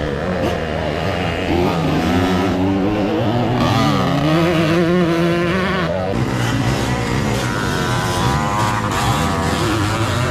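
Motocross dirt bike engines revving and running, several at once, their pitch rising and falling as the riders work the throttle.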